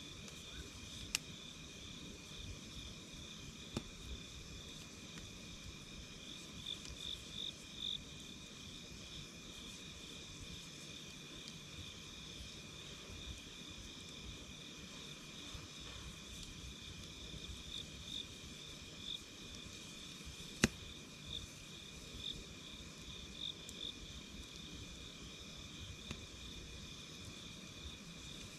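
A steady, high-pitched chorus of night insects such as crickets, trilling without pause, over the soft low noise of a wood campfire. A few sharp crackles and pops from the burning wood break through, the loudest about two-thirds of the way in.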